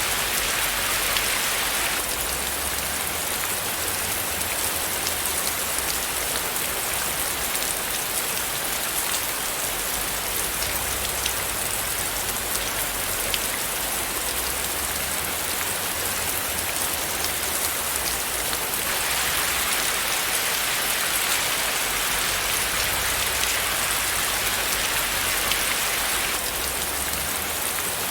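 Steady rain falling, a dense, even patter of drops. The hiss turns brighter in two stretches and then drops back.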